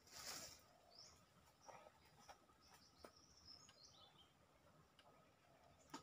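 Near silence with faint, short bird chirps, a quick run of them in the middle, plus a few soft clicks and a brief rustle just after the start.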